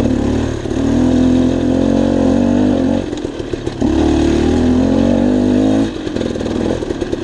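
Dirt bike engine running under throttle. It is opened up for about two seconds, eases off briefly, then is opened up again for another two seconds before dropping back.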